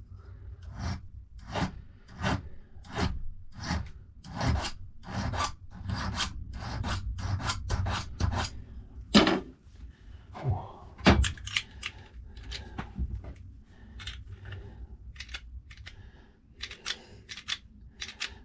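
Rhythmic metal-on-metal scraping strokes from working a key blank for a 7-lever safe lock, about one and a half strokes a second, packing closer together in the middle.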